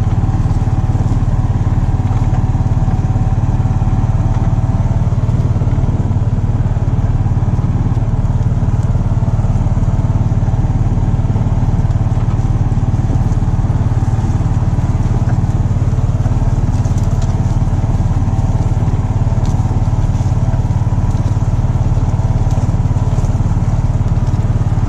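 A small engine running at a steady speed, a continuous low drone with a few faint steady higher tones above it.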